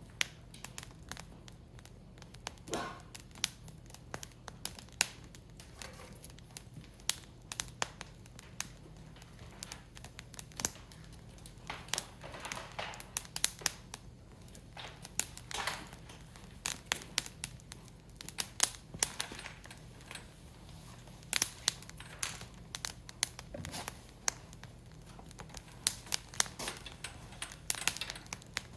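Firewood burning in a Picogrill portable fire stand, crackling with irregular sharp pops and snaps, sometimes several close together.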